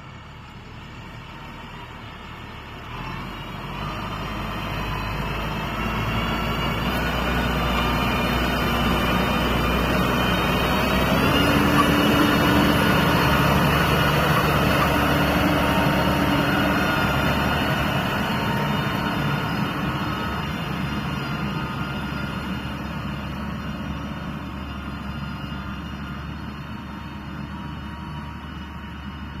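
Hanwo 2204 power-shift tractor's diesel engine running, growing steadily louder to a peak a little before halfway through, with a change in engine pitch about a third of the way in, then slowly fading.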